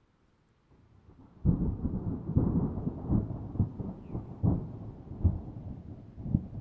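A thunderclap that breaks suddenly about a second and a half in, then rumbles on with several further sharp cracks, slowly fading.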